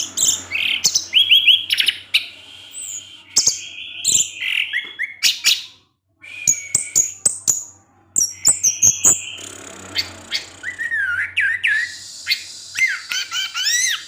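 Orange-headed thrush singing a fast, varied song of short chirps, sharp clicks, trills and whistled notes that sweep up and down. The song breaks off briefly about six and eight seconds in.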